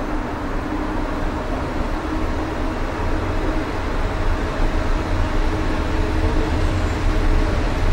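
Running noise of a passenger train heard from inside the carriage: a steady low rumble and hiss with a faint steady hum, growing a little louder about halfway through.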